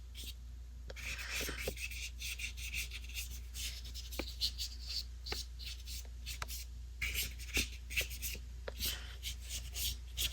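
A flat paintbrush stroking and dabbing acrylic paint onto gesso-primed mixed-media paper in many short, irregular strokes, over a steady low hum.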